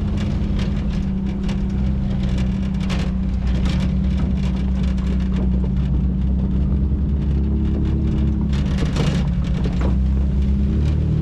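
Off-road vehicle's engine running steadily at low speed while its tyres crunch and crackle over rocks and gravel on a rough trail, with a dense patter of small knocks and clicks.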